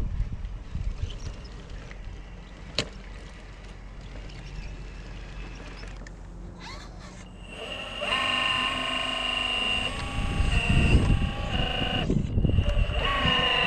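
Wind buffeting the microphone with a low rumble, then from about 8 s an RC crawler's electric motor and gear train whining steadily as the truck drives.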